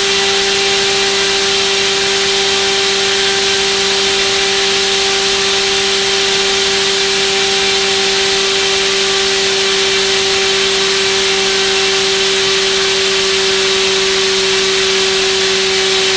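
Turnigy D2826/10 1400kV brushless outrunner motor spinning a propeller at a constant throttle setting during a thrust test: a loud, steady whine with a strong even hum and rushing air, unchanging in pitch.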